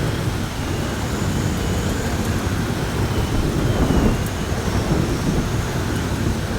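Heavy rainstorm: a steady downpour under a continuous low rumble of thunder, swelling slightly about four seconds in, with a faint wind whistle rising and falling above it.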